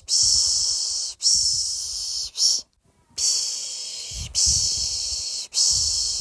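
A person shushing to lull a baby to sleep (the Turkish 'piş piş'): long hissing 'shh' sounds of about a second each in a steady rhythm. Two long ones and a short one come first, then after a half-second pause three more long ones follow.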